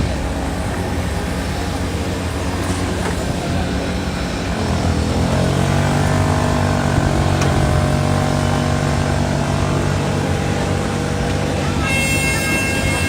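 Engine noise running steadily, its pitch shifting and settling higher about five seconds in, with a few high steady tones near the end.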